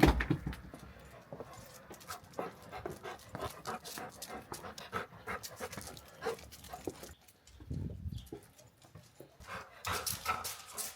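A dog panting in quick, irregular breaths, with a thump right at the start.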